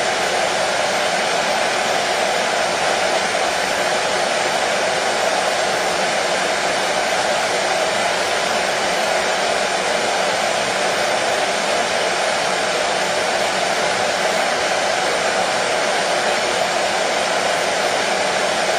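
Hair dryer running steadily: an even, unbroken blowing whir, strongest in the mid range, with no change in speed or pitch.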